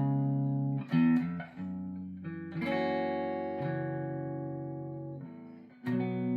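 ESP E-II Horizon electric guitar with EMG pickups played through an amp. Chords are struck about four times, and each is left to ring and fade.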